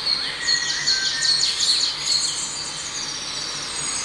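Birds chirping, with many quick, high chirps and trills that are busiest in the first two seconds, over a steady high-pitched tone.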